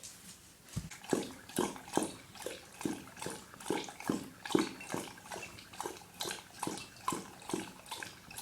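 Dog lapping water from a bowl, steady wet laps a little over two a second, starting about a second in.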